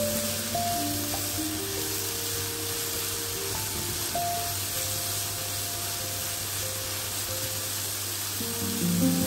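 Diced ham and vegetables sizzling as they fry in a pan, with background music of held notes over it.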